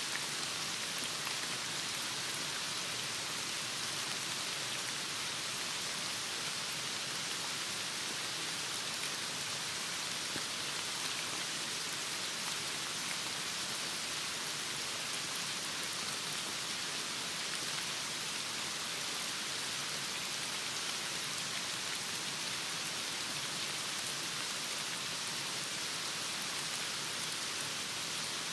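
Heavy rain falling steadily, an even hiss of rain on surfaces with no breaks or changes.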